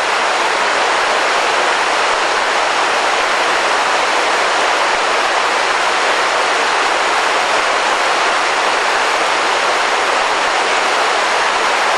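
Fast-flowing river rushing in a steady, even wash of water noise.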